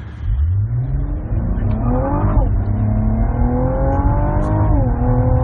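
The Cadillac ATS-V's 3.6-litre twin-turbo V6 under hard acceleration from a standstill. Its note climbs steeply and drops sharply at an upshift about two and a half seconds in, then climbs again until a second drop near the end, after which it holds steady.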